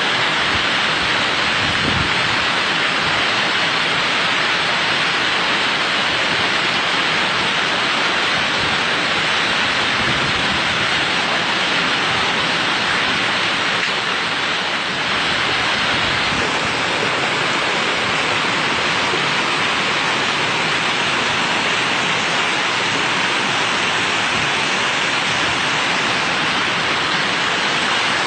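Rain falling steadily: a constant, even hiss with no pauses.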